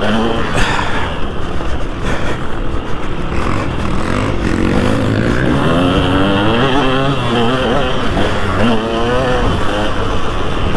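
2003 KTM 200 SX two-stroke motocross engine revving hard, its pitch rising and falling again and again as the throttle is worked.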